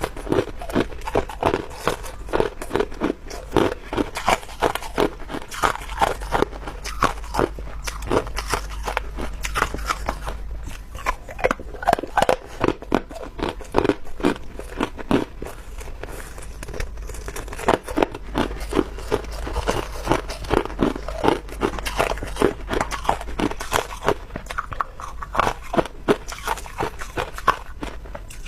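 A person biting and chewing chunks of clear ice, a rapid continuous run of sharp crunches and cracks, several a second, over a steady low hum.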